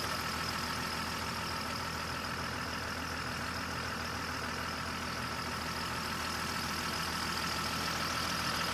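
Toyota 4x4's engine idling steadily while the vehicle sits stuck in mud.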